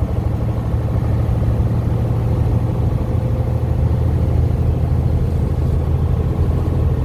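Heavy truck's diesel engine running with a steady low drone, heard from inside the cab.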